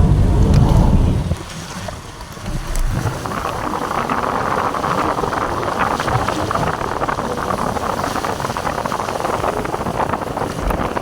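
Rainstorm outdoors: wind buffets the microphone with a loud low rumble for about the first second, then a steady rushing of rain and running water carries on.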